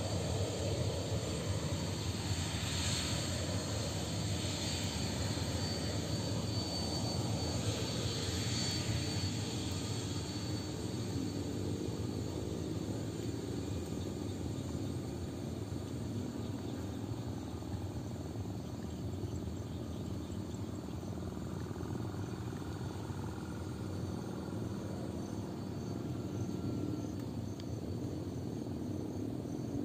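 Avro RJ85's four turbofan engines running: a steady rush with a high whine in the first third that eases a little after the middle.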